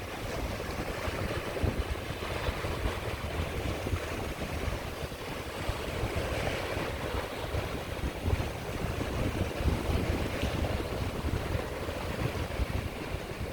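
Sea waves washing onto the shore in a steady surf wash, with swells about six and ten seconds in. Wind buffets the microphone with a low rumble throughout.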